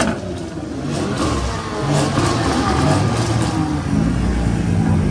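Car engines running at low revs, their pitch wavering up and down with light revving, getting louder about four seconds in.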